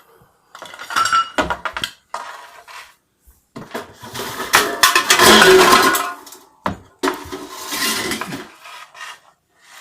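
Irregular clattering and scraping of household objects being shifted and knocked about, with one sharp clank about two-thirds of the way in.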